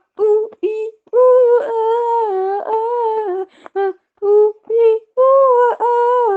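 A single unaccompanied voice humming or singing a wordless melody: a few short notes, a long wavering held note, more short notes, then another long held note near the end.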